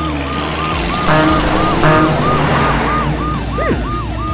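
Cartoon police siren wailing rapidly up and down, about three cycles a second, over chase music and vehicle noise, with two short blasts about one and two seconds in.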